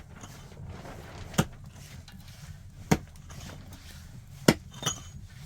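Chopping: a hand tool striking hard, a sharp blow about every second and a half, four in all.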